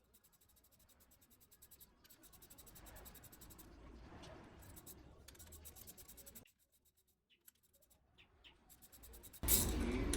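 Faint scratching and rubbing for a few seconds, then near silence.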